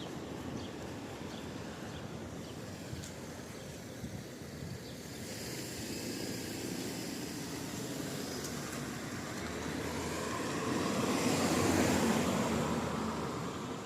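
Steady rain, with a vehicle passing on the wet road: its tyre hiss swells from about five seconds in to a peak near the end, then starts to fade.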